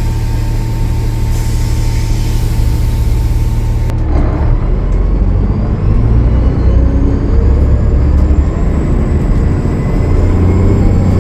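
A Cummins ISL9 diesel engine on a 2013 Gillig Low Floor transit bus, with a loud air hiss over it that cuts off suddenly about four seconds in. The engine then pulls harder and grows louder, with a faint high whine above it.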